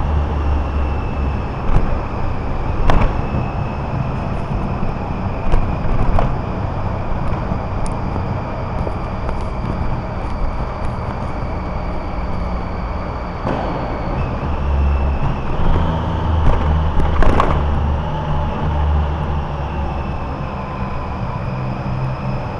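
Car on the move: a steady low rumble of engine and tyres, with a faint high whine that shifts in pitch about fourteen seconds in and a few sharp knocks.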